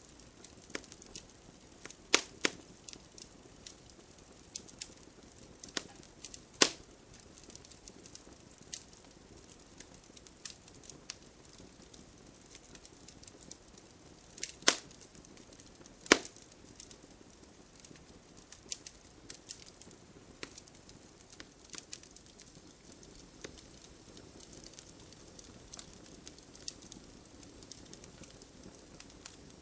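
Wood fire crackling, with scattered small pops and a few louder snaps.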